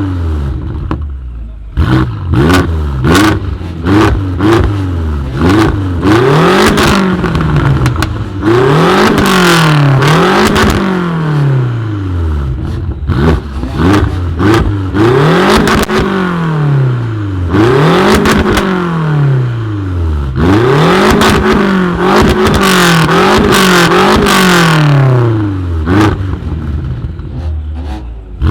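Tuned car engine with a loud aftermarket exhaust revved about a dozen times in quick throttle blips, the pitch climbing and falling with each one, with sharp pops and crackles from the exhaust as the revs drop.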